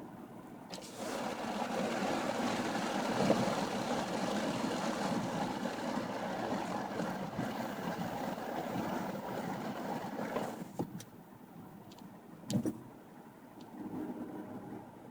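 BMW E60 5 Series rattling loudly from the underbody for about ten seconds, then going quiet, with one sharp knock afterwards. The owner hears this rattle mostly under acceleration, sometimes while coasting, rising with road speed, and places it at the lower rear of the car.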